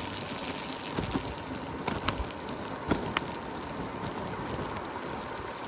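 Steady rush of wind buffeting the microphone while riding a Segway electric scooter, with a few short knocks about one, two and three seconds in.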